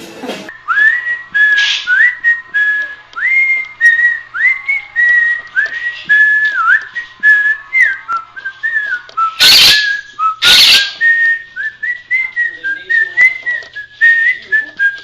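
Parrot whistling a tune: a string of short whistled notes, most sliding up into a held note, about a dozen in a row. About halfway through, two loud harsh bursts about a second apart break in.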